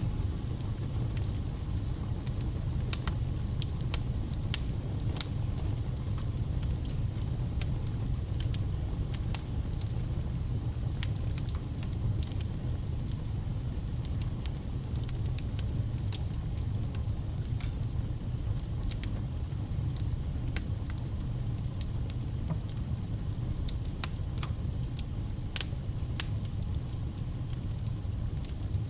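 Wood fire burning, with a steady low rumble of flames and frequent sharp crackles and pops of burning logs.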